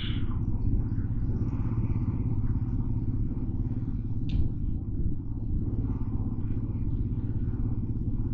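Motorcycle engine running steadily under way in traffic, a continuous low rumble, with one brief high-pitched sound about four seconds in.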